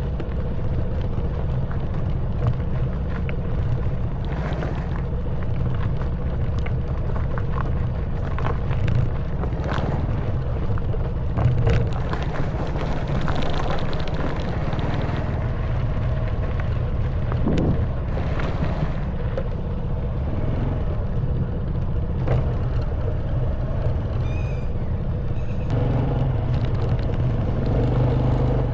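Honda Wave 110cc single-cylinder four-stroke motorbike engine running steadily on a rough stone track, with frequent short knocks and rattles as the bike goes over stones. The engine note picks up a little about three seconds before the end.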